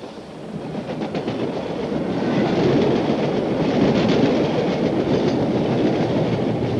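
Model goods train running along the layout's track, its wheels clicking and rattling over the rails. It grows louder over the first few seconds as it approaches, then runs on steadily.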